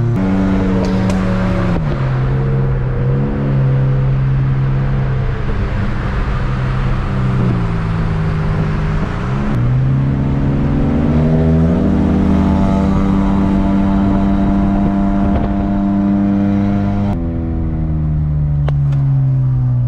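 Honda Civic coupe engine running as the car is driven. The engine note holds steady for stretches, then its pitch drops or climbs several times, with a sharp drop about two seconds in and a falling note near the end.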